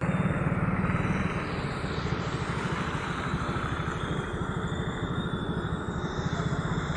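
An engine running steadily with a fast, even pulse, under a steady hiss.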